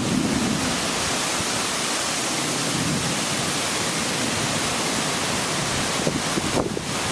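Steady rushing noise of strong, gusty wind and heavy rain in a microburst storm, with a few small ticks and knocks near the end.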